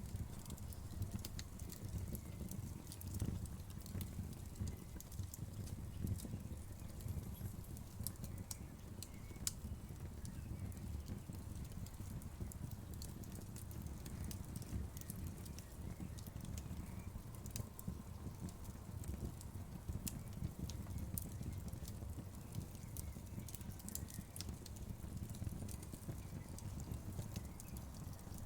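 Wood fire in a fireplace crackling and popping, with irregular sharp crackles over a steady low rumble of the flames.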